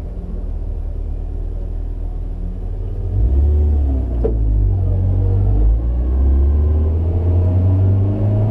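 Highly modified BMW E36 3-series engine heard inside its stripped cabin, accelerating: a low drone that gets louder about three seconds in, then rises in pitch through the second half. A single sharp click comes a little after the middle, while the driver's hand is on the gear lever.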